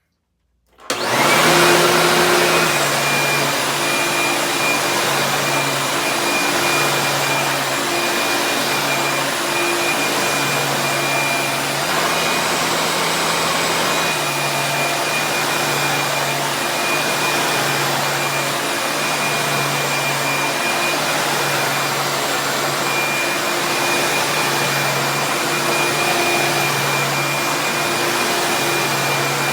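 1990s upright vacuum cleaner switching on about a second in and running steadily at full power: a loud motor rush with a constant high whine, its low hum swelling and fading every second or so.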